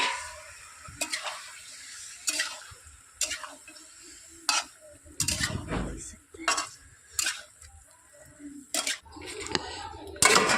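A spoon stirring onions frying in a pot, clinking and scraping against the pot at irregular intervals.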